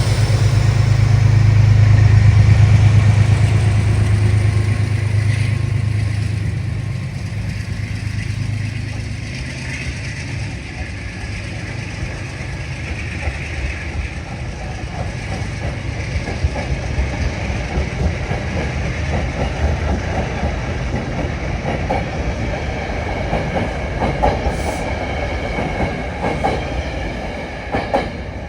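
A Metro-North train passing through the station. A deep hum is loudest in the first few seconds and then fades, followed by a steady rumble of wheels clicking over the rail joints as the cars roll by.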